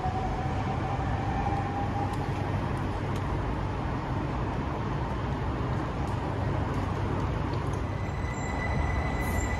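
Electric passenger trains at a station platform, with a steady low rumble throughout. Near the end a train pulls in on the nearest track, and a steady high squeal sets in about eight seconds in as it brakes.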